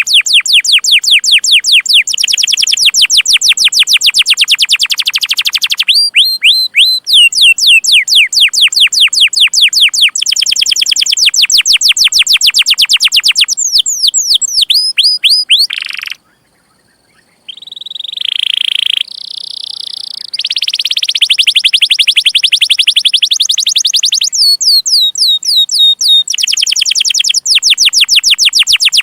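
A domestic canary singing in full song: long rolling trills of fast, repeated, falling chirps. The trills come in phrases that change every few seconds, with a brief pause a little past halfway and a few held higher notes after it.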